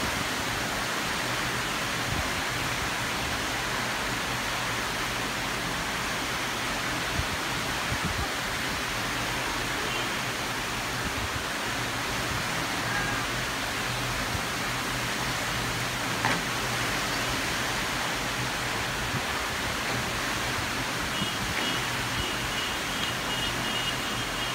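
Heavy tropical rain pouring down in a steady hiss, with a faint low hum underneath and a few faint high tones near the end.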